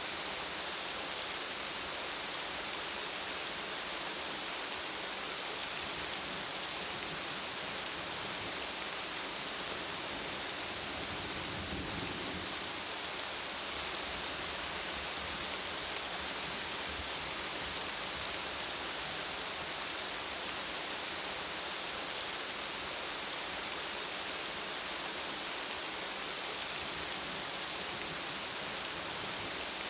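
Steady heavy rain, an even hiss, with a brief low rumble near the middle.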